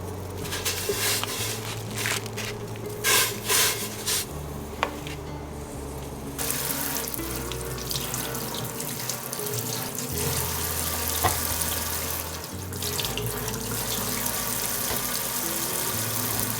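Kitchen tap water running into a sink. It comes in short splashing spurts about three seconds in, then runs steadily from about six seconds in.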